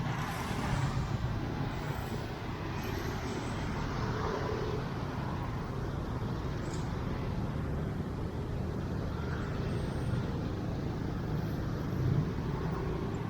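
Steady city street traffic: a continuous wash of passing road vehicles, with a slight swell about twelve seconds in.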